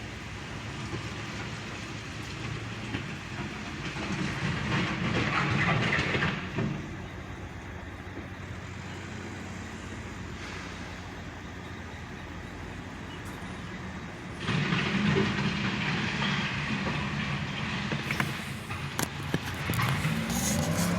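Backhoe engine running steadily, working harder and louder for about two seconds a few seconds in and again for the last third. Several sharp knocks come near the end.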